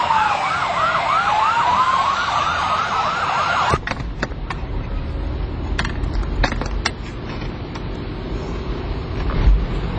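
Two police sirens sounding together, one in a fast repeating yelp and the other in a slower falling-and-rising wail, both cutting off suddenly about four seconds in. Afterwards a low rumble with a few sharp clicks.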